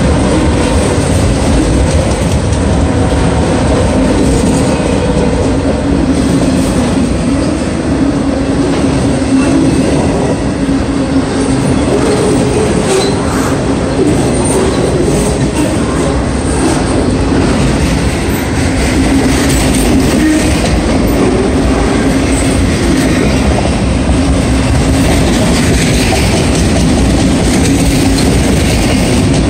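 Autorack freight cars rolling past at close range: steady rumble and clatter of steel wheels on the rails, with a steady droning tone running through it.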